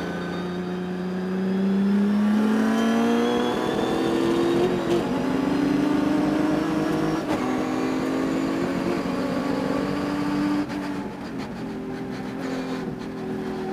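Race car engine under throttle, its pitch rising for several seconds, then easing off about ten and a half seconds in to a lower, steadier note. The engine has a high-RPM miss, which the driver could not cure during the race.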